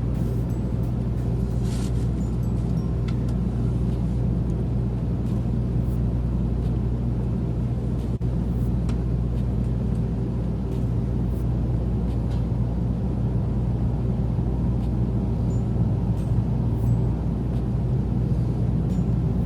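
Steady low rumble of a Sanyo Shinkansen Nozomi train running, heard inside the passenger cabin, with a low hum and a few faint ticks.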